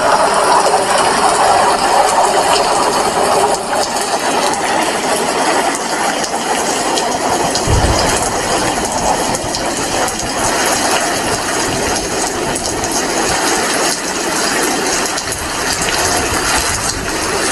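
Steady rain falling, an even hiss, with a brief low thump about eight seconds in.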